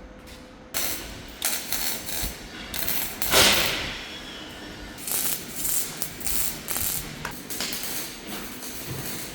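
Metalwork on a truck's cargo body: rapid mechanical ratcheting and clattering of metal on metal, starting abruptly about a second in, with a short, louder rush of noise about three and a half seconds in.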